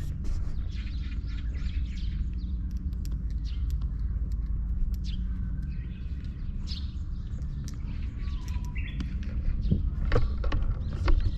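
Small birds chirping and calling over a steady low rumble, with a few sharp clicks near the end.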